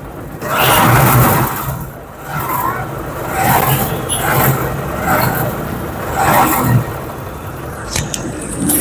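Hero CBZ Xtreme's 150 cc single-cylinder four-stroke engine running with an engine noise problem, blipped about six times in short revs. The noise is traced to a loose, worn timing chain and a cam-chain tensioner that has reached the end of its travel.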